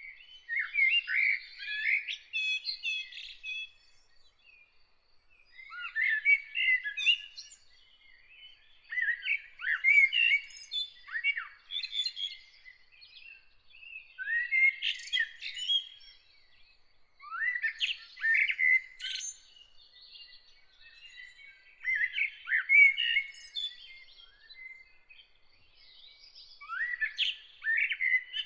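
A songbird singing in varied, warbling phrases of two to three seconds each, repeated about every four seconds with short pauses between.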